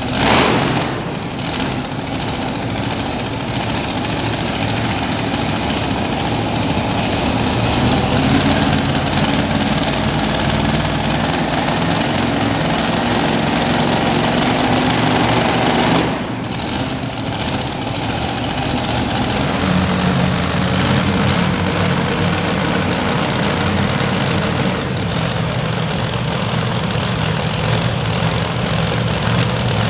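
Super modified two-wheel-drive pulling truck engine running hard, a dense continuous engine sound with a sharp surge right at the start and a brief drop about halfway through.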